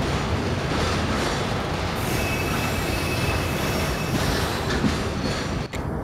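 Loaded railway tank cars rolling past on the track, a steady rumble of wheels on rails, with a thin, faint wheel squeal coming in about two seconds in.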